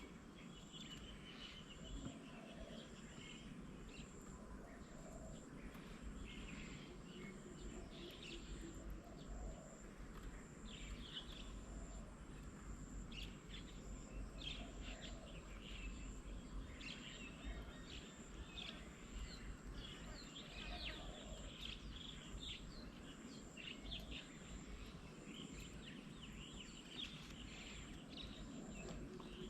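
Faint outdoor birdsong: many short chirps and calls from several birds, over a steady thin high-pitched tone and a low background rumble.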